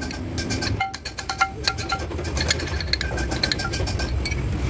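Sany concrete mixer truck's diesel engine running at low speed, with a scatter of sharp clicks and clinks over it.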